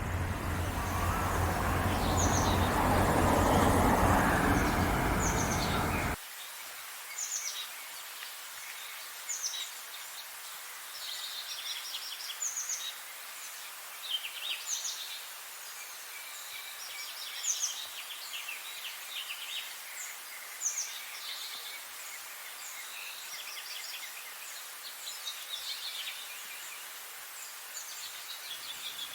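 Birds chirping and singing, short high calls repeating every second or so. For about the first six seconds a loud, steady low noise sits under them, then cuts off suddenly.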